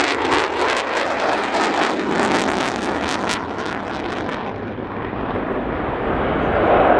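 Jet engine of an F-35B Lightning II (Pratt & Whitney F135) displaying overhead: a loud rushing noise with sharp crackle through the first few seconds. It eases off midway and builds again near the end.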